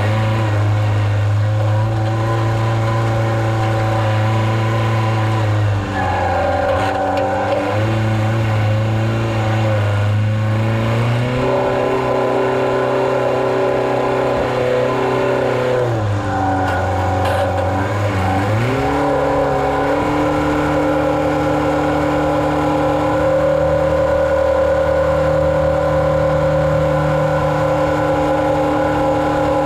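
Engine of a farm vehicle running steadily. Its speed dips and recovers a few times, then holds at a higher speed for the last third.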